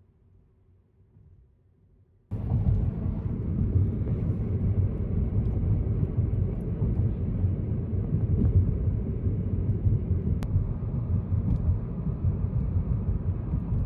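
Near silence, then about two seconds in an abrupt cut to a car driving: steady low rumble of road and engine noise.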